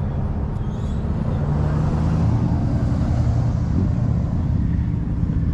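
A vehicle engine running steadily, growing slightly louder about two seconds in.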